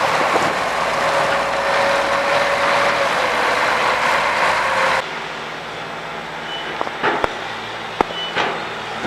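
Street traffic with a heavy vehicle running and a steady whine; about five seconds in it cuts to quieter traffic noise with a few sharp knocks and two short high beeps.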